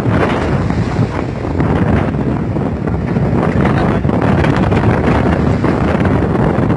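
Strong wind buffeting the microphone over the rush of a rough sea, a loud, unbroken roar.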